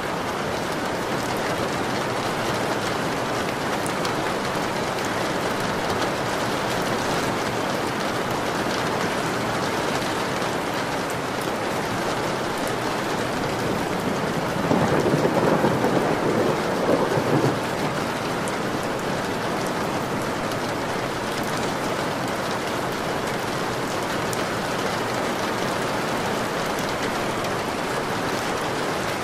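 Steady rain falling, with a roll of thunder that swells up about halfway through and lasts a few seconds.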